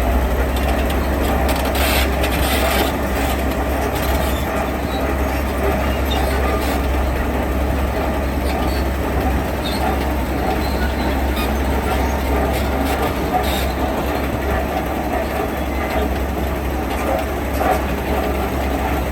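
Heavy diesel construction machinery running steadily with a deep low rumble, and a few short metallic knocks and clanks.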